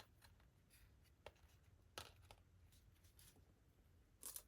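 Near silence with a few faint taps and paper rustles from handling paper and cardboard craft pieces, a small cluster of them near the end.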